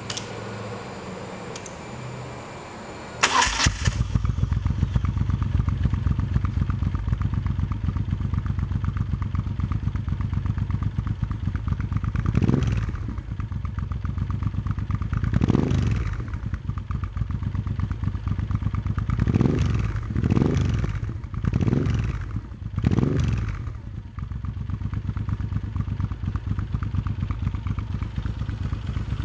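Moto Guzzi V7 Cafe's air-cooled transverse V-twin breathing through Mistral silencers, starting after a brief crank about three seconds in and then idling. Through the middle it is revved in about six short throttle blips, each rising and falling back to idle.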